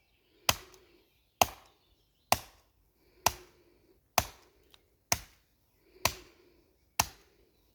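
Open-hand palm strikes landing one after another: eight sharp slaps, about one a second, each with a short tail.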